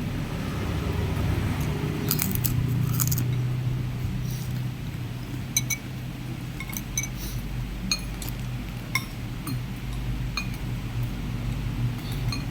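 Spoon clinking against a bowl, about a dozen light clinks spread irregularly over the seconds, over a steady low hum.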